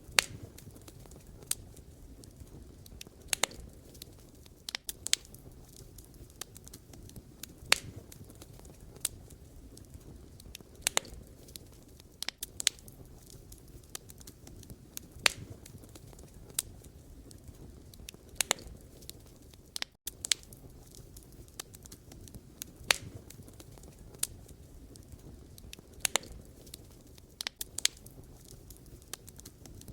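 Wood campfire burning: sharp crackles and pops at uneven intervals, about every second or two, over a low steady rumble of the flames.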